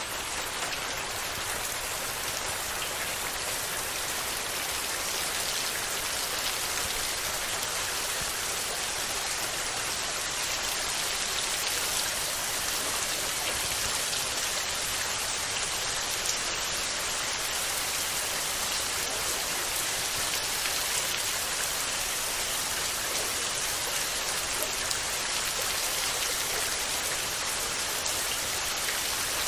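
Steady rain falling, a dense even hiss of drops pattering on surfaces.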